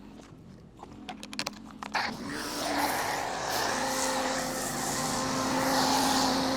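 A run of light clicks, then about two seconds in a pressure washer starts running: a steady hum with a hiss of water spray, as the car is pre-rinsed.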